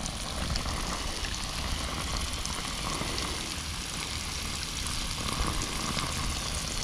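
Catfish fillets deep-frying in hot oil in a pan, a steady crackling sizzle. The oil is hot enough that the cook thinks the fish may be cooking a little too fast.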